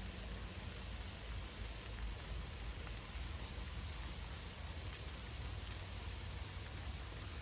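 Smash burger patties sizzling as they cook over high heat, a steady crackle with a low rumble underneath.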